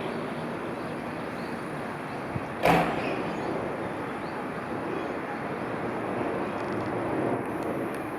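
Electric train running through a station, a steady rumbling noise, with one sharp knock about two and a half seconds in.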